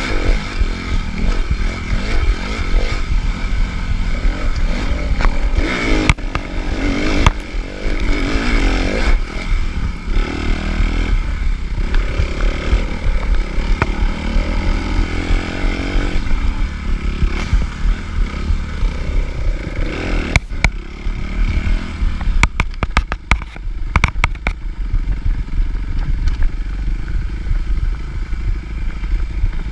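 Suzuki RM-Z250 four-stroke 250 cc single-cylinder motocross engine revving up and falling back again and again under hard riding over rough ground. Sharp clattering knocks from the bike come through now and then, most of them in a quick run about two thirds of the way in.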